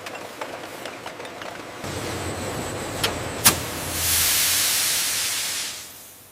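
Glass-jar conveyor machinery running, with light clicks and a sharp click about three and a half seconds in, then a loud hiss that fades away near the end.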